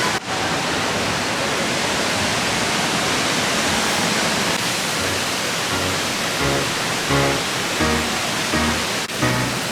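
Waterfall's water rushing as a steady, even noise, with faint background music coming in about halfway through.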